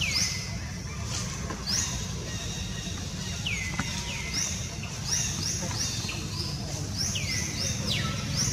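Birds calling: high chirps that each slide down in pitch, coming in quick runs of two to four, over a steady low rumble.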